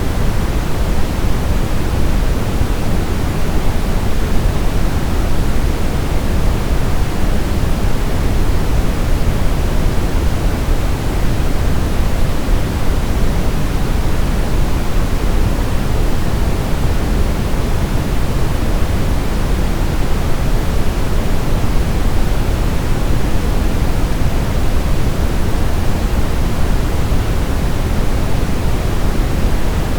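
Steady brown noise: an even, deep rushing hiss weighted toward the low end, with no change or break.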